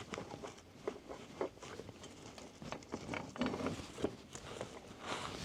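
Scattered light clicks and taps with faint rustling: small parts and tools being handled.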